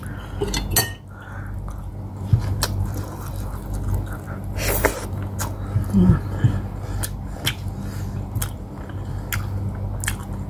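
Close-up chewing and wet mouth smacks of someone eating boiled pork hock and rice by hand, with many short sticky clicks scattered throughout. A steady low hum runs underneath.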